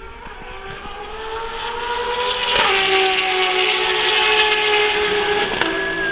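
A Ferrari V12 track car's engine accelerating hard, growing louder and rising in pitch, with two quick upshifts, the first about two and a half seconds in and the second near the end.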